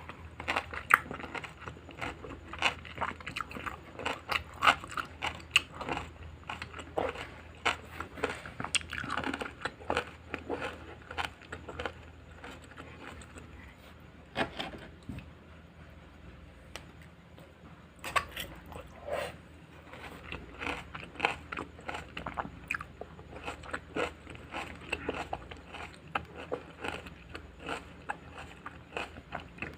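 Crunching and chewing of a raw garden salad: dense crisp crackles as fresh vegetables are bitten and chewed, with a quieter stretch about halfway through before the crunching picks up again.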